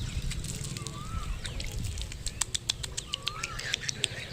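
A bird gives a short, squeaky up-and-down note about every two seconds, over a low rumble. A quick run of sharp clicks comes in the middle.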